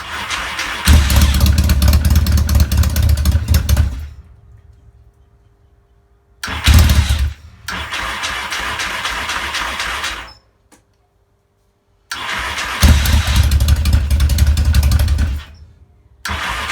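Yamaha XS650 parallel-twin motorcycle engine being started again and again on the electric starter: four times it catches and runs rough for a few seconds, then dies. It is hard starting, which the owner puts down to slightly over-jetted carburettors.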